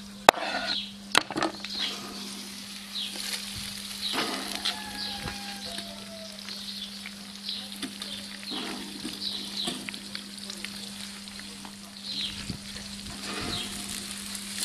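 Oyster mushrooms and green tomato pieces frying in a wok over a charcoal grill, with a steady sizzle. A couple of sharp knocks near the start, from a knife on a wooden cutting board.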